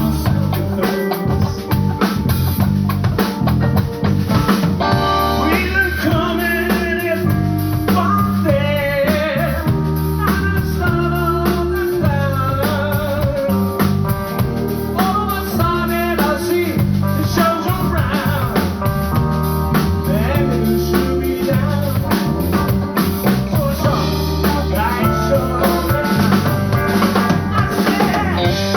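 Live band playing with drum kit and guitar over a low bass line, a lead part bending and wavering in pitch above them from a few seconds in.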